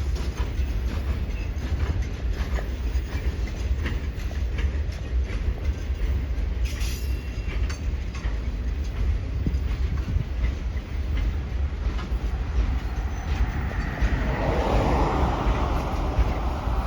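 Norfolk Southern Triple Crown RoadRailer freight train, highway trailers riding on rail bogies, rolling past with a steady deep rumble and repeated wheel clicks over the rail joints. A louder, higher-pitched wheel noise builds near the end.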